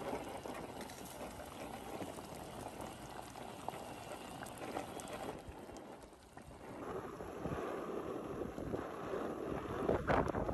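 Chopped onion and koobi (salted dried fish) sizzling as they fry in palm oil in a pot: a steady low sizzle that drops away briefly about six seconds in and then comes back, with a few faint knocks near the end.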